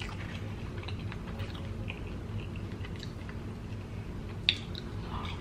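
A person chewing fried food with soft wet clicks and small crunches, with one sharper click about four and a half seconds in, over a low steady hum.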